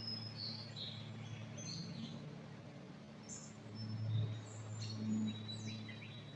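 Songbirds chirping and calling, short high notes scattered throughout, over a steady low hum.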